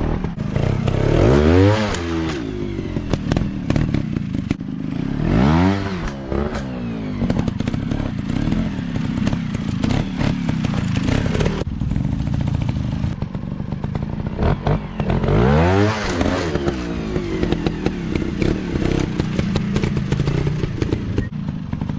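Dirt bike engines running at low revs, with sharp throttle blips that rise and fall in pitch three times.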